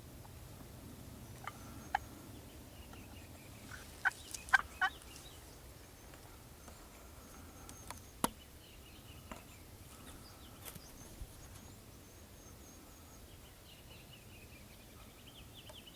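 A Merriam's wild turkey gobbling, a short burst of sharp rattling pulses about four seconds in, with a few single sharp pulses before and after. Small songbirds chirp and trill faintly in the background.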